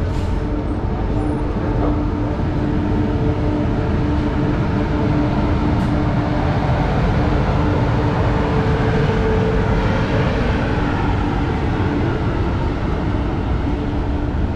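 Saraighat Express passenger train running on the line: a steady rumble of wheels on track with a constant hum.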